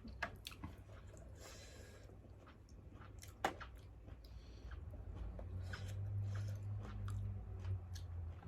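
Eating sounds: chewing and crunching with scattered small clicks and taps, under a low hum that grows louder about halfway through.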